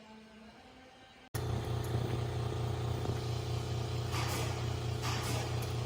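An engine on the tree-removal job runs steadily with a low hum. It starts abruptly about a second in, and noisy surges come over it a few times near the end.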